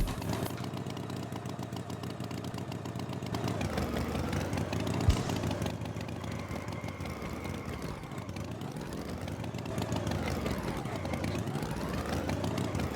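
Tractor engine running steadily, its pitch dipping and rising again twice, with a short knock about five seconds in.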